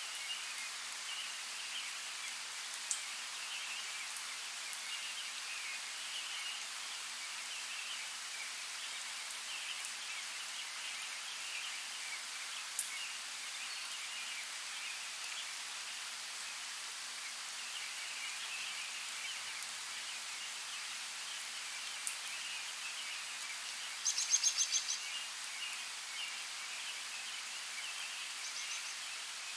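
Steady rain hiss with a few single sharp drip ticks. Near the end comes a brief run of rapid clicking, about eight clicks a second.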